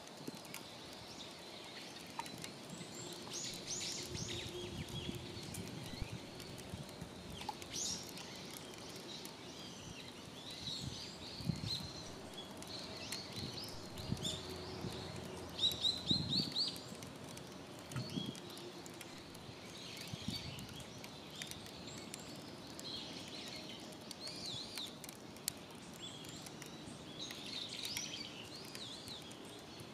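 Wild birds chirping and calling again and again, short high notes, some rising and falling, over a steady outdoor background, with a few soft low knocks.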